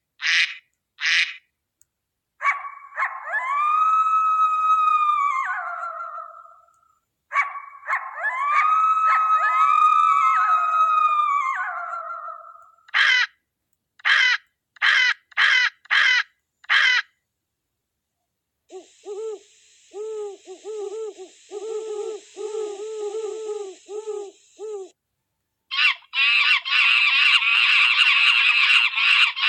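A run of different animal calls played one after another: a few short calls, two long wavering calls that swell and fall away, five short sharp calls, a fast chattering series, then a dense noisy chorus of calls near the end.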